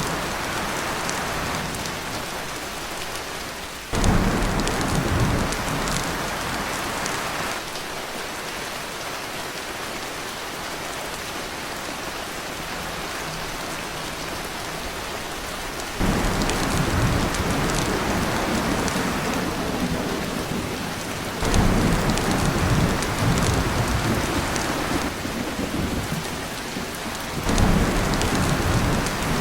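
Heavy rain falling on a tin roof, with deep rumbles of thunder that come in suddenly several times and hold for a few seconds each.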